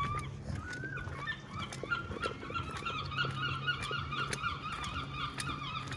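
A bird calling in a rapid run of short, repeated honking notes, starting about a second in and going on until near the end.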